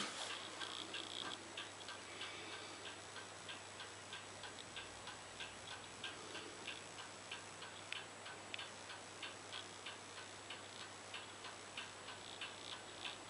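LG F1443KG front-loading washing machine running: quick, even ticking, about two to three clicks a second, over a faint steady hum.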